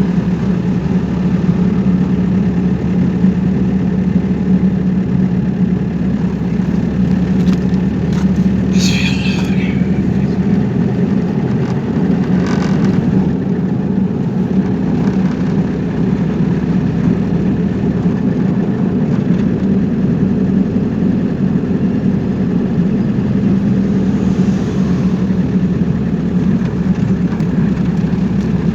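Steady drone of a car's engine and road noise while driving, with two brief higher-pitched sounds about nine and twelve seconds in.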